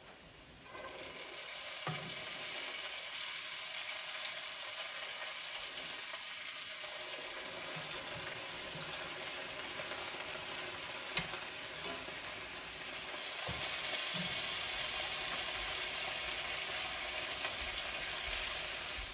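Boiled perogies and onions sizzling in butter in a cast-iron skillet. The sizzle swells about a second in as the first perogies go into the hot fat, with a few light knocks of the spoon. It grows louder again around two-thirds of the way through as more are added.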